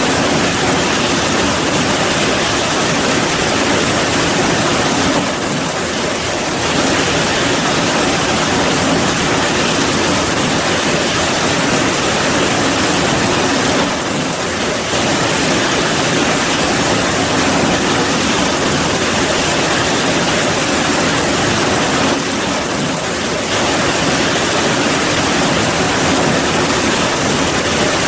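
Heavy, steady rainfall: a loud, even hiss of rain. The sound dips slightly for about a second three times, roughly every eight or nine seconds.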